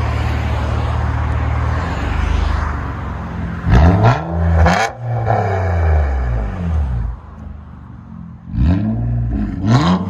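Nissan Altima with its resonator and rear muffler deleted, idling with a steady drone. The engine is then blipped twice, about four seconds in and again near the end, each rev rising sharply and falling back to idle. The exhaust sounds clean.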